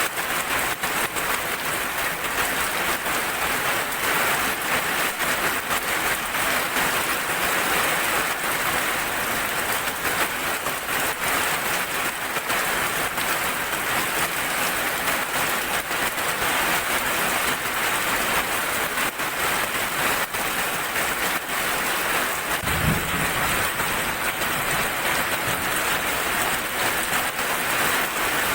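Heavy rain falling steadily: a dense, even hiss of drops pattering on a surface. A brief low rumble comes about 23 seconds in.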